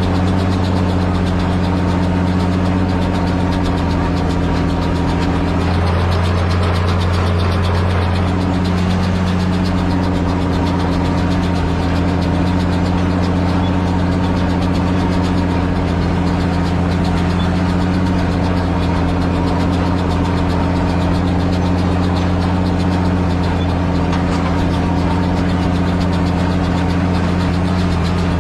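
Same Titan 160 tractor's diesel engine running steadily under way. Its note dips briefly about six seconds in and recovers a few seconds later.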